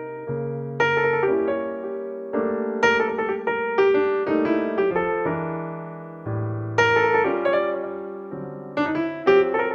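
Background music: solo piano playing slow chords and melody, each note struck and left to ring and fade.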